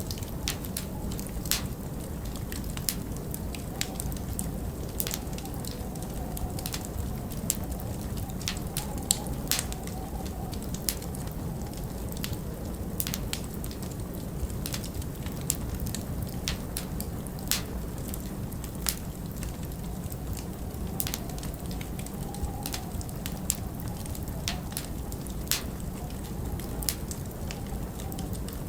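Log fire crackling with irregular sharp pops over a steady low rush of winter wind, with a faint wavering whistle in the wind.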